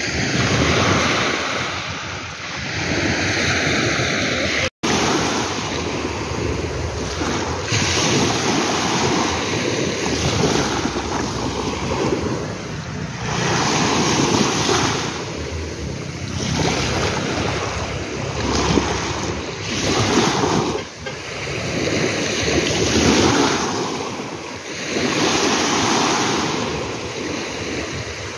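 Ocean waves breaking and washing in, swelling and falling every few seconds, with wind buffeting the microphone. The sound cuts out for an instant about five seconds in.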